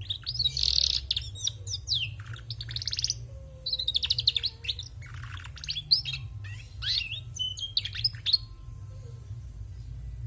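Female canary singing: a quick run of chirps, sweeping whistles and fast buzzy trills that stops about eight and a half seconds in.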